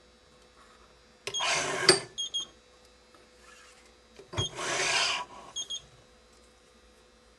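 Badminton string (Yonex Nanogy 99) zipping through the racket frame's grommet holes as it is drawn through during pre-weaving: two brisk swishes about three seconds apart, each followed by a couple of small light clicks.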